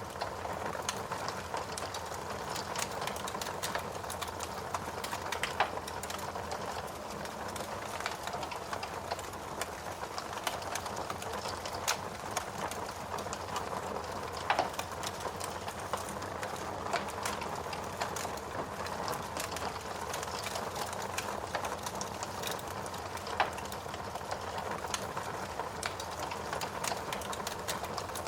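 Wood fire crackling in a fireplace: a steady hiss dense with small pops, and a few louder snaps.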